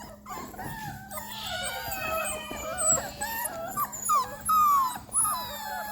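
Several Rottweiler puppies whining and crying at once, a chorus of high, wavering cries overlapping one another.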